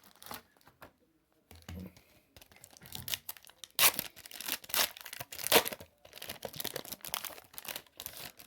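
A trading-card pack wrapper being torn open and crinkled, a run of ripping and crackling that starts a couple of seconds in and is loudest about four and five and a half seconds in.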